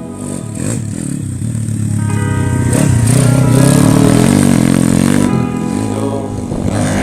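Four-stroke off-road motorcycle engine revving up and down several times, loudest in the middle, over background music.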